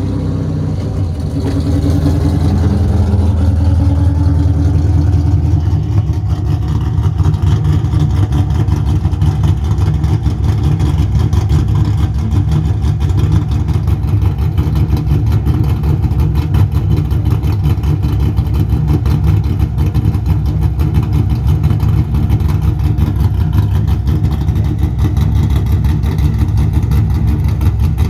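Cammed 6.0-litre LS V8 of a 2001 Camaro Z28 idling just after a cold start. It runs fairly evenly for the first six seconds or so, then settles into a choppy, loping idle from the 227/231 camshaft.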